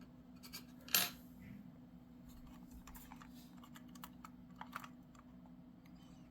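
Small plastic clicks and taps from handling a model freight car and its NEM-socket couplers, with one sharper click about a second in and a few faint ones after, over a low steady hum.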